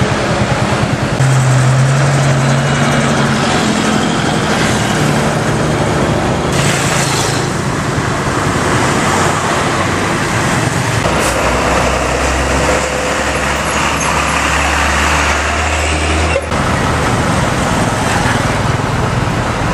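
Road traffic with the engines of trucks and other heavy vehicles running and passing. The noise is steady and loud, and it changes abruptly a few times at cuts between shots.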